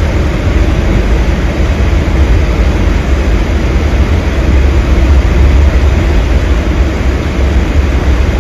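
Blizzard wind blowing hard across the microphone: a loud, steady rumble with a hiss of wind over it.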